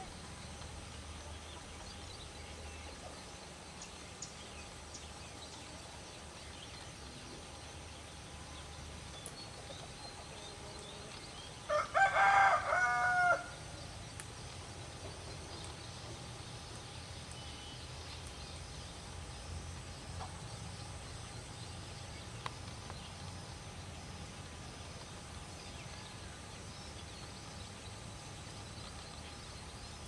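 A single loud bird call about twelve seconds in, lasting about a second and a half, over a steady low background hum.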